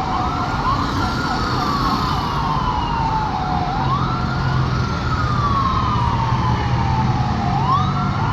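Emergency vehicle siren in a slow wail: each cycle climbs quickly and falls away slowly, with three rises, over a low engine rumble.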